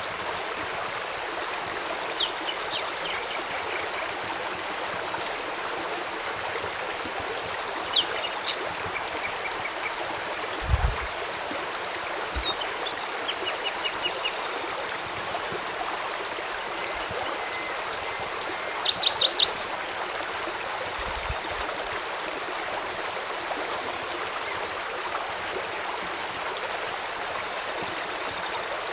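Steady rush of flowing river water, with small birds chirping and trilling now and then and a few soft low thumps.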